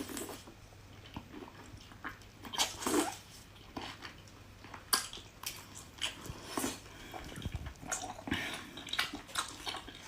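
A person chewing and smacking on seafood, with wet, crackly mouth sounds coming in irregular bursts.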